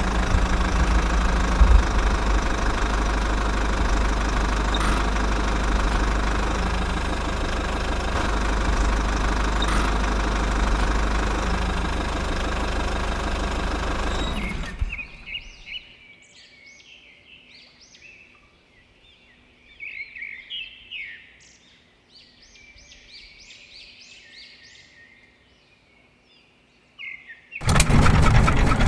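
A small motor running steadily, which cuts off about halfway through, leaving birds chirping. The steady running starts again just before the end.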